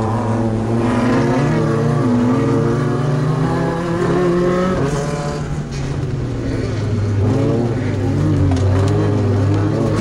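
Class 2 off-road racing truck's engine running hard, its pitch rising and falling over and over, with a couple of sharp knocks about halfway through and again near the end.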